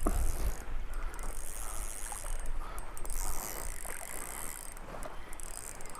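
Spinning reel working as a hooked brown trout is played on light tackle, its gears and ratchet whirring in several stretches, over low wind rumble on the microphone.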